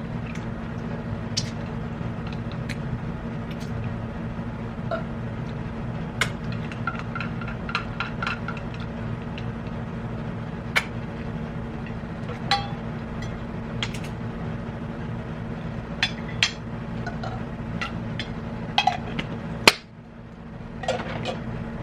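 Eating at a table: scattered clinks and clicks of utensils against dishes and food packaging, over a steady low hum.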